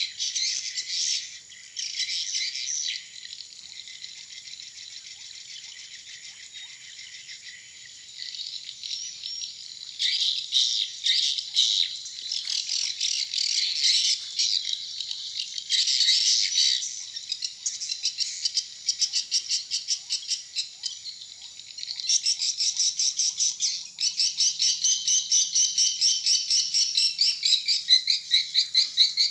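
Edible-nest swiftlets chirping in dense, rapid, high-pitched chattering trills, the pattern changing several times and ending in fast, evenly repeated calls.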